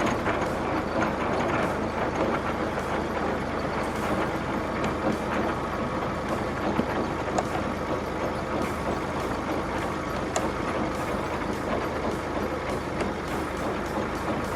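Monster truck engine running steadily.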